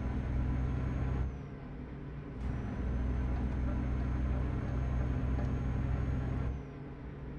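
Truck engine heard from inside the cab: a steady low drone with a faint high whine. It drops away about a second in, comes back with a click after a second or so, and drops again near the end.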